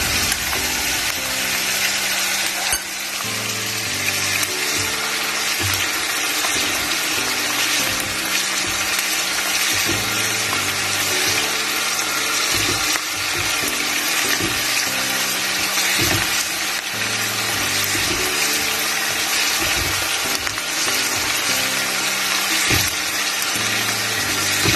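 Diced onion and garlic sizzling steadily in hot oil in a wok, stirred now and then with a spatula, over quiet background music.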